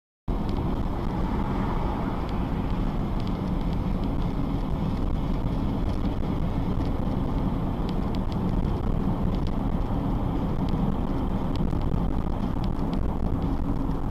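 Steady rumble of a car driving, road and engine noise, which cuts in suddenly just after the start, with a few faint ticks.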